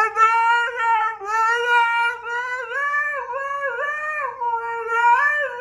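A dog howling in one long drawn-out, wavering howl that steps up and down in pitch, then breaks off suddenly.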